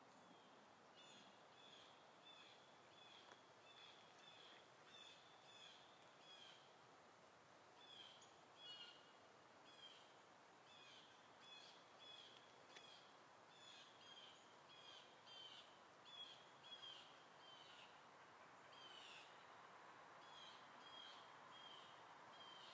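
Faint bird calls: short high chirps repeated about twice a second, with a few pauses, over a low steady hiss.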